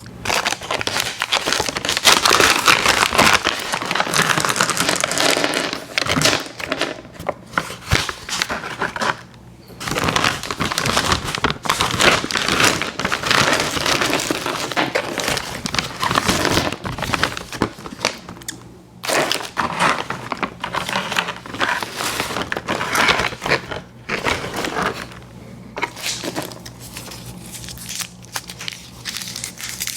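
Candy packaging crinkling and crackling close to the microphone as it is handled and opened, in loud stretches broken by a few short pauses.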